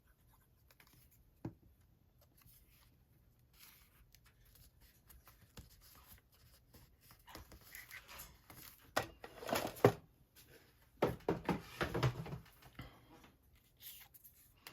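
Paper being handled: pieces of paper ephemera shuffled and rustled in irregular bursts, faint at first and louder in the second half.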